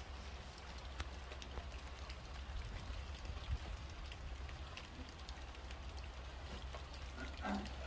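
Rain falling: a steady hiss of rain with many scattered drop ticks, over a steady low rumble. A short pitched sound near the end.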